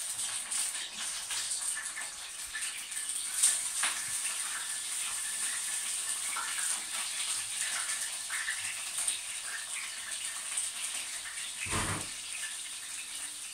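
Eggplant slices frying in hot oil in a pan: a steady sizzle with fine crackling. A short thump near the end.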